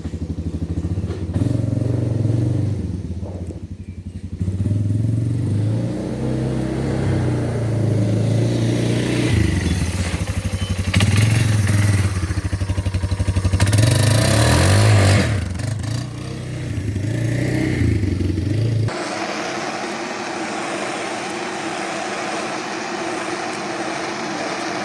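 Small engine of a Yamaha running and revving, its pitch rising and falling. About three-quarters of the way through it cuts off abruptly to a steady hiss.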